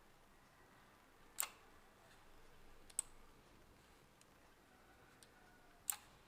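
Three sharp computer mouse clicks, about a second and a half apart, over faint room tone.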